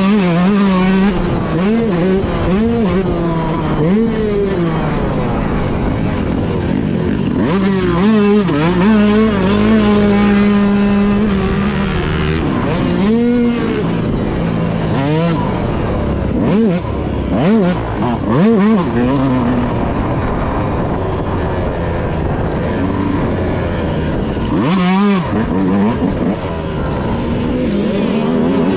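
Motocross dirt bike engine racing around a track. Its pitch climbs and drops sharply over and over as the throttle is opened and shut through the corners and jumps.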